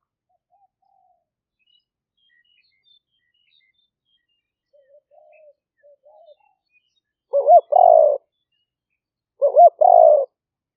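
Spotted dove cooing: soft, faint coos about five seconds in, then two loud coo phrases near the end, each a short note followed by a longer one. Faint chirps of small birds sound in the background.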